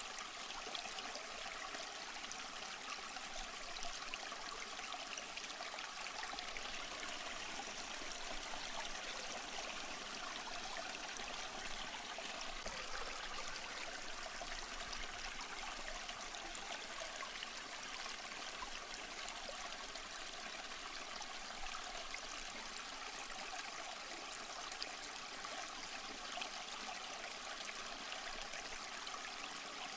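A small stream running over rocks: a steady, even rush of water with fine trickling and bubbling and no breaks.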